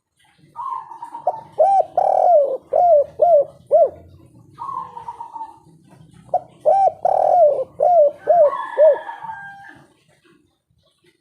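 Spotted dove (tekukur) singing its 'kuk 3' song in two cooing phrases, each a drawn-out opening note followed by a quick run of short, arched coos.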